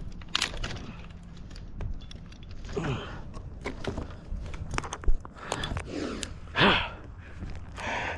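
Close-up handling noise from a tree climber working in the tree: scattered sharp clicks and rustles, with two short strained groans falling in pitch, about three seconds in and again near seven seconds, and heavy breathing near the end.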